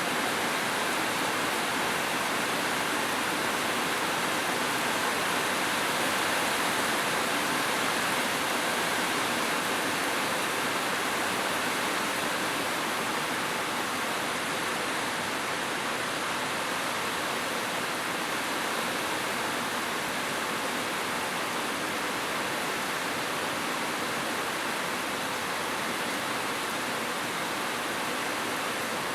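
Heavy rain falling steadily on a roof, an even downpour with no thunder or changes.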